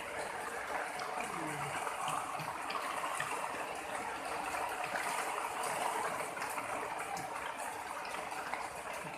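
Heavy rain falling. It is a steady hiss with scattered small ticks of drops.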